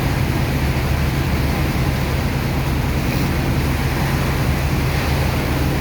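Sand dredger's engine and pump running steadily: a low, even drone with a constant rushing noise over it.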